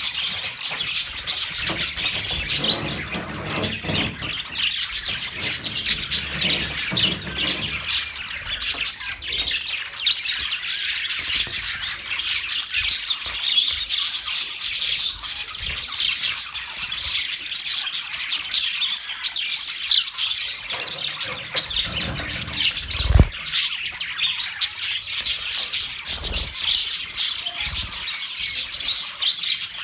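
A group of budgerigars chirping and chattering continuously in quick overlapping warbles and squawks, with a few low knocks, the loudest about two-thirds of the way through.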